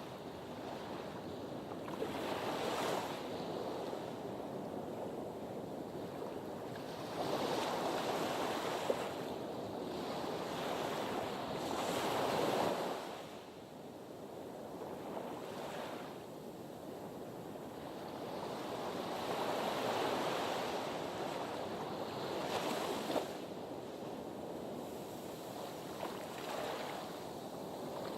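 Sea surf washing against a harbour breakwater, swelling and falling back every few seconds.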